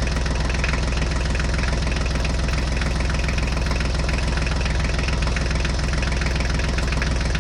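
Tractor diesel engine running steadily at idle, an even, rapid chugging that does not change.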